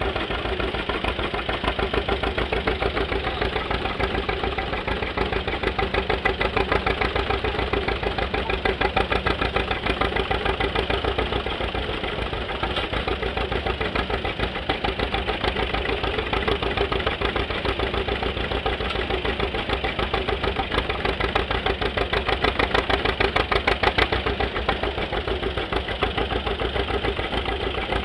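Antique farm engine running steadily with a fast, even knocking beat.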